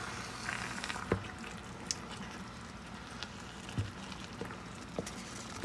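Marinated chicken legs in a thick green paste bubbling and sizzling in a frying pan while a wooden spatula stirs them, with a few sharp knocks of the spatula against the pan. This is the slow fry-and-stir (kosha) stage of cooking the chicken in its marinade.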